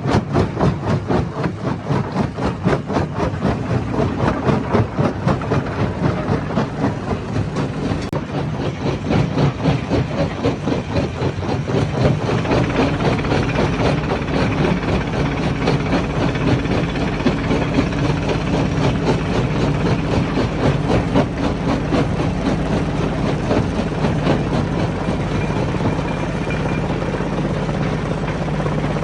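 Hammer stone crusher running and crushing rock: a rapid, irregular clatter of stone impacts over the machine's steady low drone. About twelve seconds in, the drone grows deeper and fuller.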